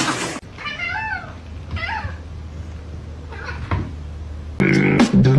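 A domestic cat meowing three times, each meow rising then falling in pitch, over a low steady hum. Near the end, loud music with a beat cuts in.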